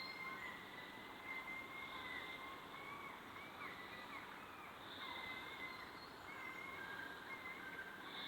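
Faint outdoor nature ambience: a steady hiss with thin, wavering animal calls, and a short high buzz that repeats about every three seconds.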